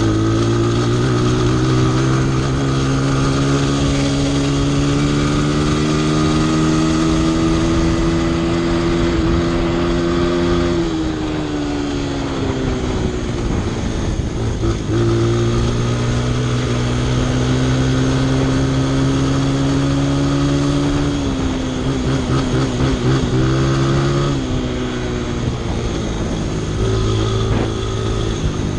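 Honda CRF100F dirt bike's small single-cylinder four-stroke engine running under way: the pitch climbs at the start and holds steady, drops off as the throttle eases about a third of the way in, then picks up again, wavering and dipping in the later part of the ride.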